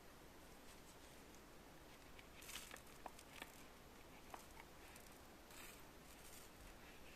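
Near silence: room tone with a few faint, scattered clicks and a brief rustle a little past the middle.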